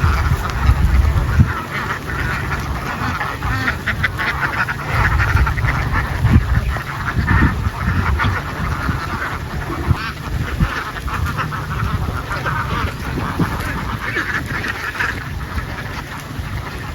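A large flock of domestic ducks quacking together in a dense, continuous clamour, over a steady low rumble.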